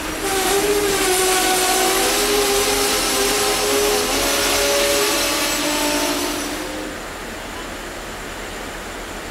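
Great Smoky Mountains Railroad passenger train running along the track, heard from an open car window. A loud, sustained cluster of steady tones sits over the rolling noise for about six and a half seconds, then stops, leaving only the rolling noise.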